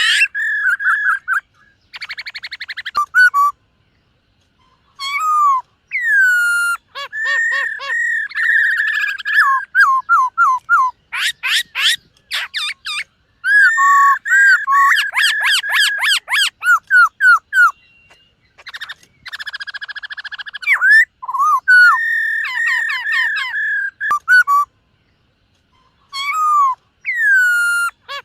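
Black-throated laughingthrush singing: loud, varied whistled phrases with rapid trills and quick sliding notes, broken by two short pauses.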